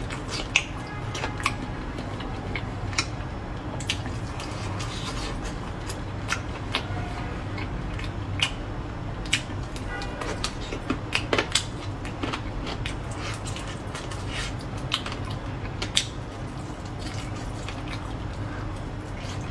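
Close-miked chewing of braised pork, with frequent short wet smacks and clicks from the mouth over a steady low hum.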